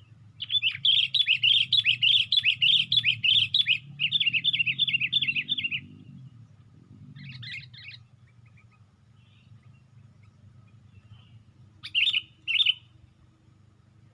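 Sooty-headed bulbul (kutilang) calling: two long, rapid chattering phrases in the first six seconds, a short call about seven seconds in, and two sharp notes near the end.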